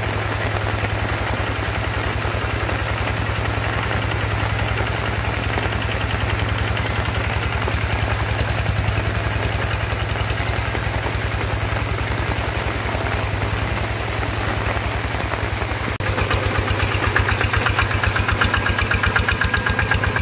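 Engine of a walk-behind rice-field tractor running steadily with a rapid pulsing beat. About sixteen seconds in it gets louder and harsher.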